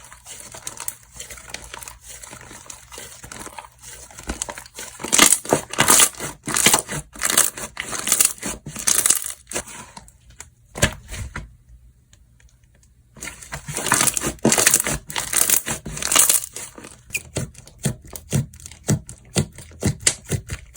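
Slime being squished, stretched and folded by hand, giving rapid sticky clicks and small air pops. It pauses for about three seconds midway, then starts again.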